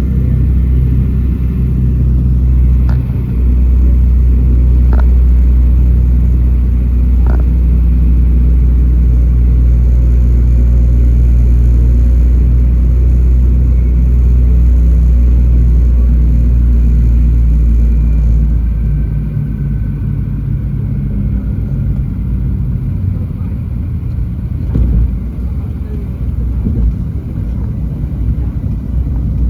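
Douglas DC-3's twin radial piston engines droning steadily, heard inside the cabin on the descent. About eighteen seconds in the drone drops as power is pulled back, leaving a rougher rumble with a few knocks.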